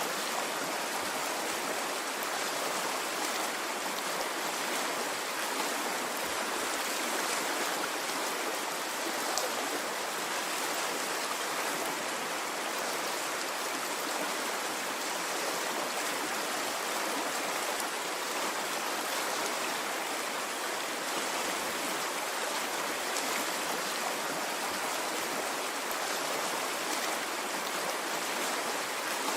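Stream water flowing steadily, an even rushing with faint ticks of small splashes and no rise and fall of waves.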